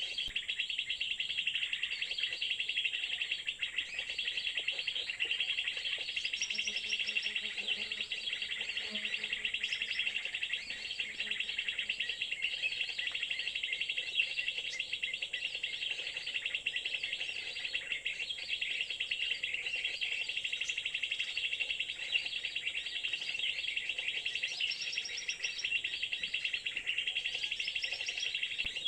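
Birds chirping and twittering rapidly and without a break, high-pitched, with a few higher rising notes now and then.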